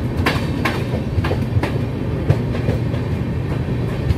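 Express train running along the track: a steady low rumble with the wheels clicking over rail joints at irregular intervals.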